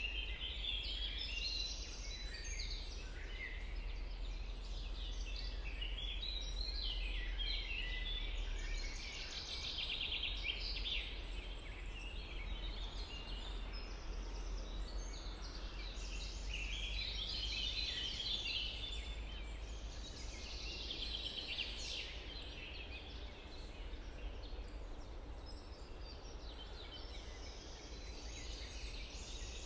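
Several songbirds singing at once, overlapping phrases and rapid trills, over a low steady rumble.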